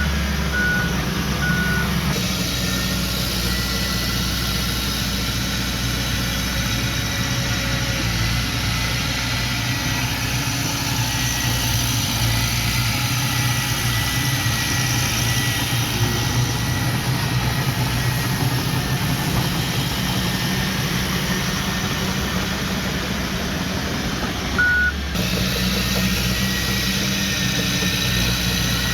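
Heavy diesel earthmoving equipment running steadily, with a reversing alarm giving three short beeps near the start and one more near the end.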